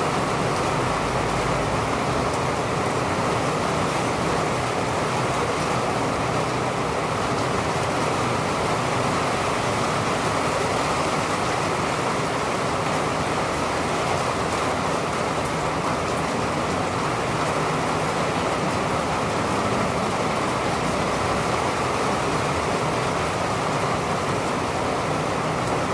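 Steady rain falling, a constant rushing hiss with no thunder claps.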